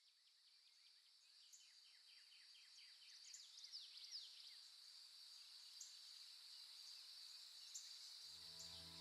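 Faint outdoor nature ambience fading in: a steady high insect drone with quick repeated bird chirps and a few gliding bird calls. Soft music comes in near the end.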